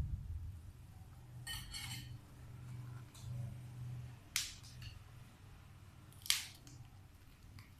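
Crunching of raw green vegetables: a short rough crunch early on, then two sharp crisp snaps, one a little past halfway and a louder one near the end, over a low steady hum.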